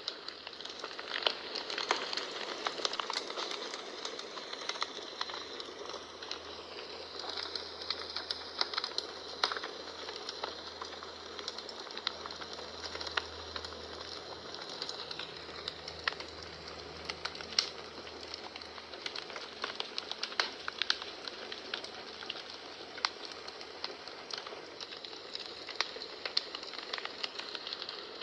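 Wood fire in a home fireplace crackling, with irregular sharp pops and snaps over a steady hiss of flames.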